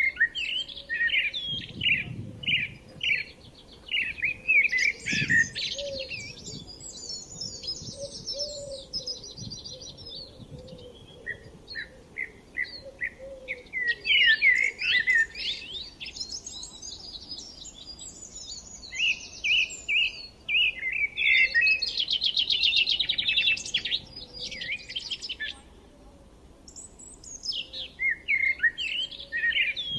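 Several songbirds singing: runs of quick repeated chirps and trills that overlap one another, with a fast rattling trill past the middle.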